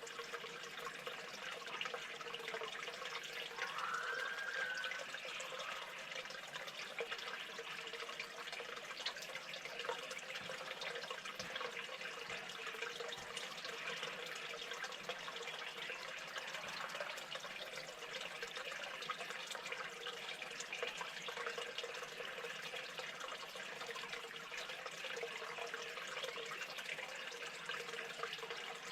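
Steady rushing noise with a faint constant hum, and one short call about four seconds in that rises and then holds its pitch.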